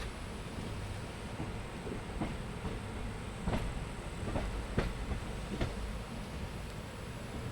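Train running along the track: a steady low rumble with a handful of sharp wheel clicks over rail joints, starting about two seconds in.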